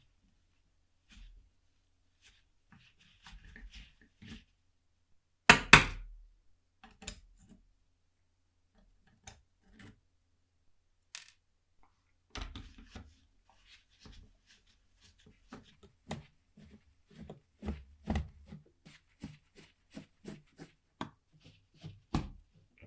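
Small metal clicks and taps from hand work on clock parts, with a louder double clatter about five and a half seconds in and a quicker run of uneven clicks in the second half.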